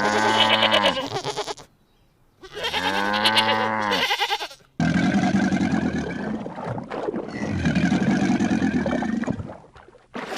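Farm animal calls: two pitched calls, each rising then falling in pitch, followed by a longer, rougher call lasting about five seconds.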